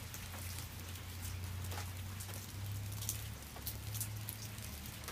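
Steady rain falling, with scattered individual drops landing close by and a low steady hum underneath.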